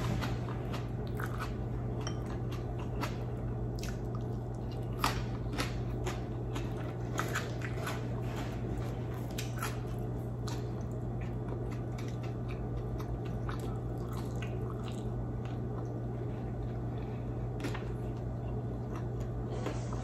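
Close-miked mouth sounds of a person eating oven-cooked squid and rice: wet chewing and biting with scattered short smacking clicks, over a steady low hum.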